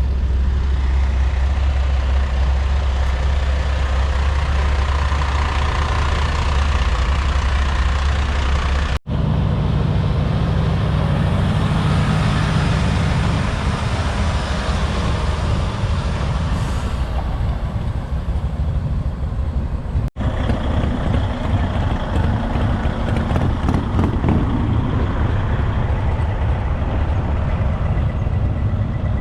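Heavy diesel truck engines running with a steady low rumble, the sound cutting off abruptly and resuming twice, about nine and twenty seconds in.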